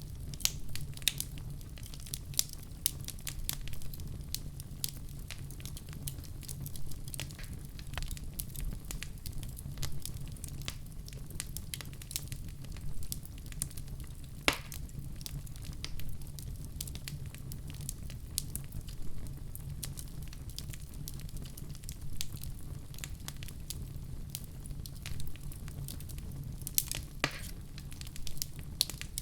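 Wood fire burning in a fireplace: a steady low rumble of flames with irregular crackles and snaps, and a few louder pops, one about halfway through and another near the end.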